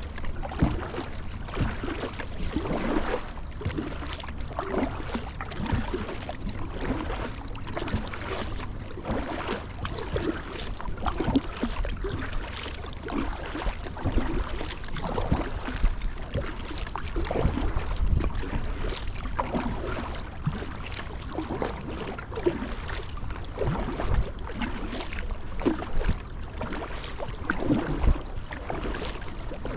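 Kayak paddle strokes: the blade dipping and splashing in shallow water, with water dripping and trickling, in an irregular stream of small splashes over a low steady rumble.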